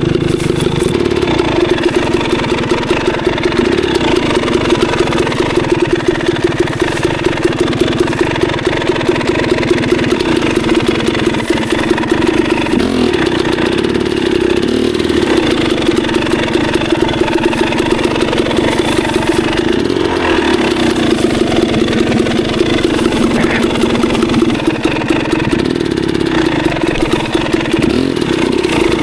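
Dirt bike engine running at fairly steady, low revs throughout, with brief small changes in pitch a couple of times as the throttle is worked.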